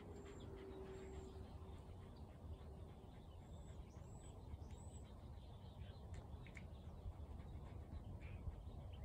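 Faint outdoor ambience: a low rumble with small birds chirping in the distance, several short high calls. A faint steady hum fades out about three seconds in.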